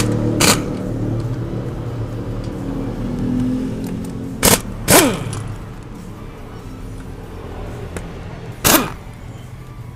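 Pneumatic impact wrench fired in five short bursts, mostly in quick pairs, loosening bolts on the cylinder head of a Yamaha NMAX engine. The later bursts die away with a falling whine as the air motor spins down. A steady low hum runs underneath and fades about halfway.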